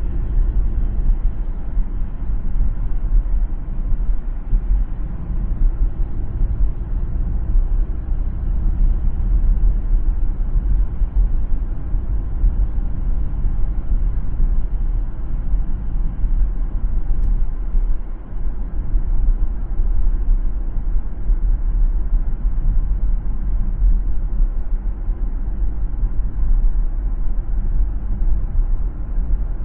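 Steady low rumble of a car driving along a city road: tyre and road noise with the engine under it.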